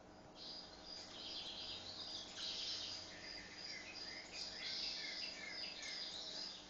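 Small birds chirping and twittering, many quick high calls overlapping, over a faint steady hum.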